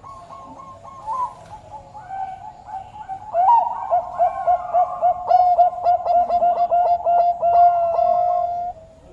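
Zebra dove of the Bangkok song strain (perkutut) cooing: a few soft notes, then from about three and a half seconds a fast run of short coos, about five a second, that ends in a longer held note near the end.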